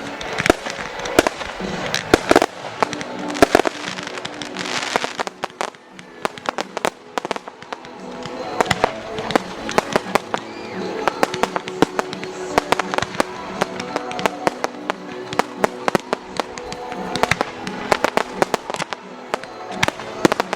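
Fireworks going off: repeated sharp bangs and crackles, coming thick and fast from about eight seconds in, with music playing underneath.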